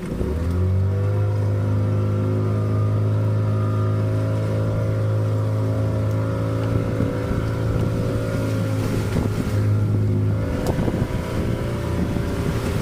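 A boat's engine comes up in pitch just after the start and then runs steadily at a constant speed, with wind and water noise underneath.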